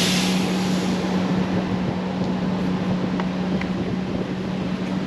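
Steady low hum of a running bus engine under a rough rumbling noise, with a short burst of hiss right at the start.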